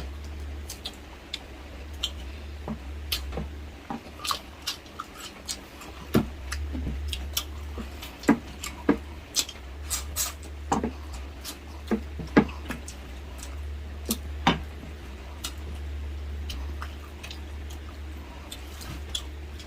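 Close-miked eating: irregular wet chewing, lip smacks and sharp clicks, a few every second, over a steady low hum.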